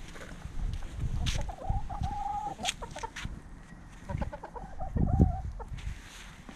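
Jersey Giant chickens calling: two drawn-out clucking calls, the first about a second in and the second past the middle, with scattered clicks and low thumps.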